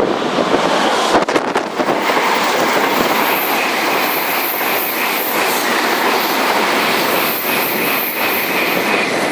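A train passing at close range: a loud, steady rush of wheel and air noise, with a quick run of clicks about a second in and a high whine from a few seconds in.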